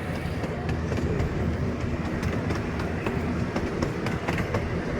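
Miniature ride-on train rolling along its track, heard from aboard a carriage: a steady low rumble with scattered clicks and knocks from the wheels on the rails.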